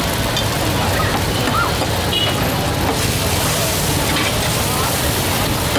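Stir-fried noodles and vegetables sizzling on a flat steel griddle, a steady frying hiss, as a metal spatula stirs and scoops the food.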